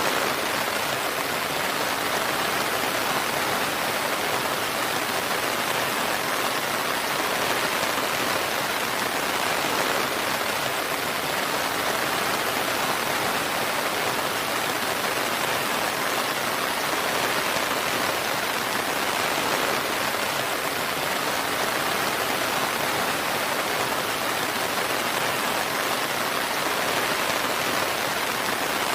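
Steady rain falling, an even hiss without pauses or thunder.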